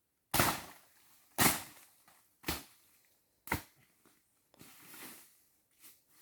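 Four sharp strikes, evenly spaced about a second apart, followed by two softer, noisier sounds near the end.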